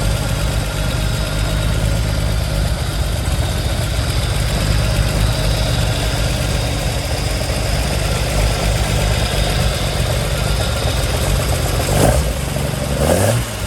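Race-tuned Triumph TR5 straight-six on triple Weber carburettors idling steadily, with the uneven idle the high-lift race cam gives it. Near the end the throttle is blipped and the engine revs up briefly.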